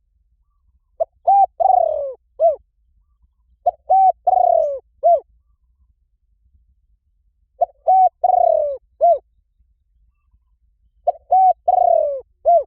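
Spotted dove cooing: four call phrases a few seconds apart, each a quick pair of short coos, a longer coo falling in pitch, and a short closing coo.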